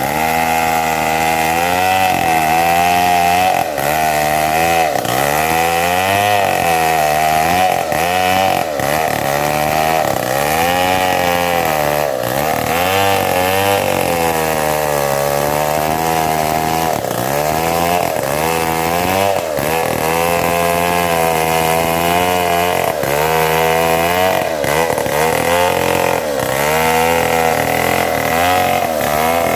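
Two-stroke chainsaw running at high revs and cutting mahogany. Its engine pitch dips and recovers again and again as the chain bites into the wood.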